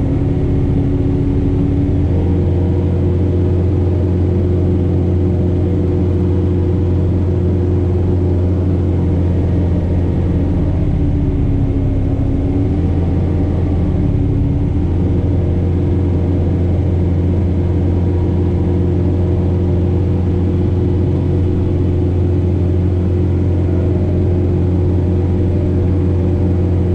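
John Deere 4066R tractor's diesel engine running steadily under load, driving a Frontier SB1174 snowblower through heavy wet snow. Its note dips for a few seconds about halfway through, then steadies again.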